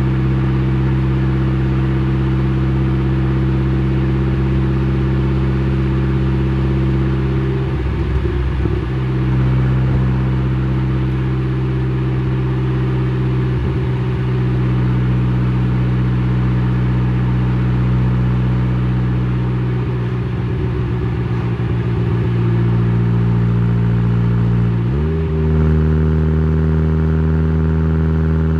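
Exhaust note of a tuned Saab 9-3's B204 2.0-litre turbo four-cylinder with a TD04-19T turbo, 3-inch downpipe and Simons muffler, recorded at the exhaust while cruising at steady revs. The engine note wavers briefly a few times, then about 25 seconds in steps up quickly in pitch and holds there.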